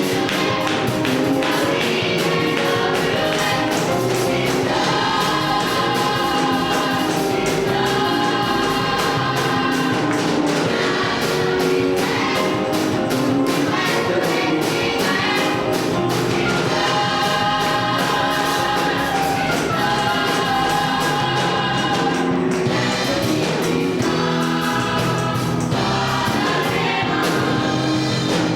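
Live gospel music: a choir singing sustained lines over a band accompaniment.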